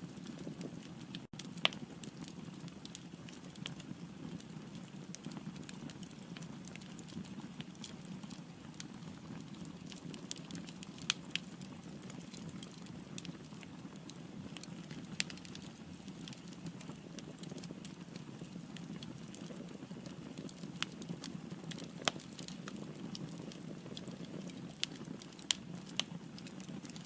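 Firewood burning in a fireplace: a steady low rush of flame with scattered sharp crackles and pops, a handful of them louder snaps.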